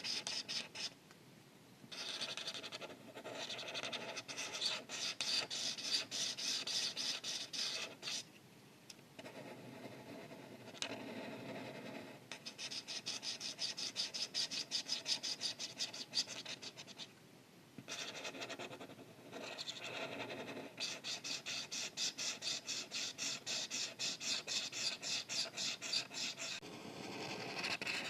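Felt-tip art marker scratching on paper in quick back-and-forth coloring strokes. The strokes come in several runs broken by short pauses.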